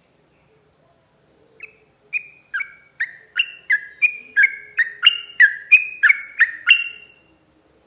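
Sooty-headed bulbul (trucuk) singing a rapid run of clear, two-pitched whistled notes, about three a second, growing louder as it goes, lasting about five seconds.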